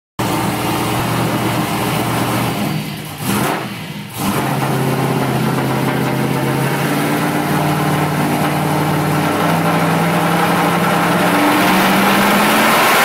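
Turbocharged 363-cubic-inch small-block Ford V8 in a 1999 Mustang Cobra, running on a freshly started engine's new tune. It falters briefly about three to four seconds in, then runs on steadily, its engine speed stepping up a few times toward the end.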